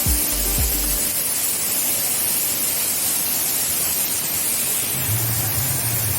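Steady rushing of a waterfall, a loud even hiss of falling water, under background music. The music has tonal notes in the first second and a low bass line entering about five seconds in.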